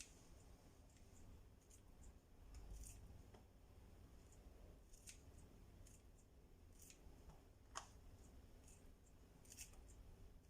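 Near silence broken by faint, scattered clicks and snips, about a dozen in all, like kitchen tools being handled during food prep. The sharpest comes about eight seconds in.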